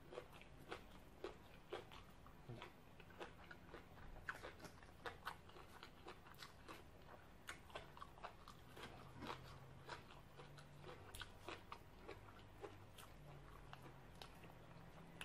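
A person chewing and crunching a mouthful of green papaya salad and fish close to the microphone. Faint, with a run of short wet mouth clicks about twice a second.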